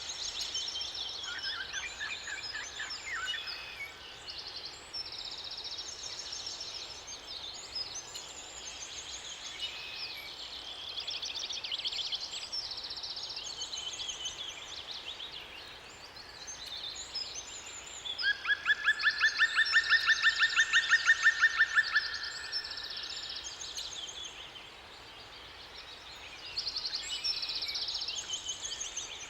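Several songbirds singing at once, a dense chorus of chirps, whistles and trills, with one bird's loud, rapid trill of repeated notes lasting about four seconds about two-thirds of the way through. A faint steady rush of water sits underneath.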